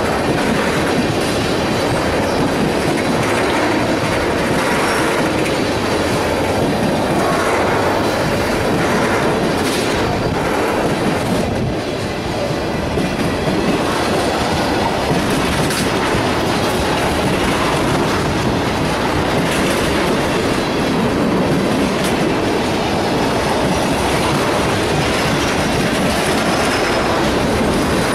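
A freight train of tank cars rolling past, its steel wheels running on the rails in a steady, continuous rumble and clatter.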